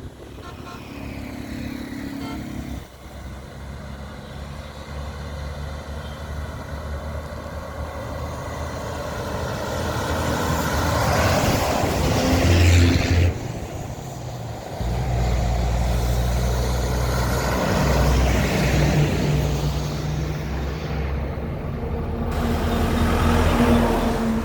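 Road vehicles: engines running and tyre noise swelling and fading as vehicles pass, several times.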